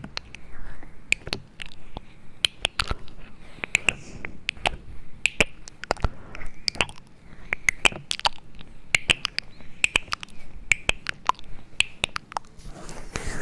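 A quick, irregular run of sharp clicks and taps, several a second, made close to the microphone as ASMR trigger sounds.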